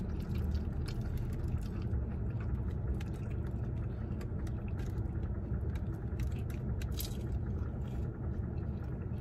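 Close mouth sounds of chewing and biting a siomai (steamed pork dumpling), scattered small wet clicks and smacks, over a steady low hum.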